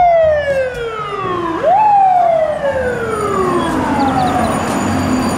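Fire ladder truck's siren wailing: the pitch falls slowly, jumps back up about a second and a half in, then falls slowly again and fades out near the end.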